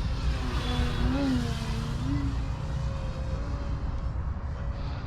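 Electric RC aerobatic plane flying, its E-flite brushless motor and 14x7 propeller whining, with the pitch rising and falling between about one and two and a half seconds in, over a steady low rumble.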